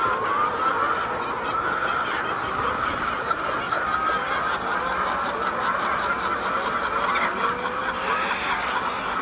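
A large flock of laying hens clucking and calling together, many voices overlapping in a steady continuous chorus.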